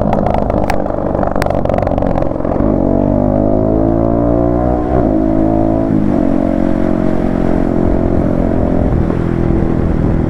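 Yamaha MT-15 V2's single-cylinder engine through an Akrapovic exhaust, accelerating on the move: the pitch climbs and drops sharply with upshifts about two and a half, five and six seconds in, then holds steadier at cruising speed.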